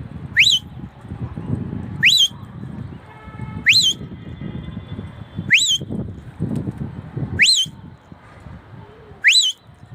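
A person whistling to call down a cockatiel: six short, sharp whistles, each rising quickly to a high note with a little flick at the top, repeated every second and a half or so over a low, uneven rumble.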